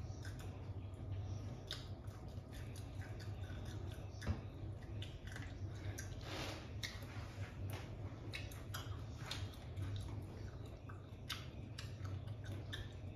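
A person chewing pieces of lime, with scattered short wet clicks and crunches from the mouth and a breath about six seconds in.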